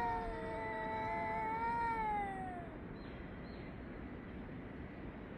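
Cat yowling at another cat: one long, drawn-out howl held at a steady pitch, then sliding down and fading out about two and a half seconds in.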